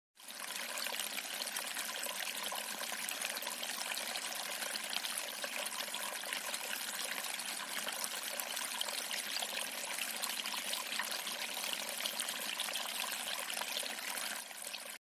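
Running water: an even, steady rushing that starts suddenly and cuts off suddenly near the end.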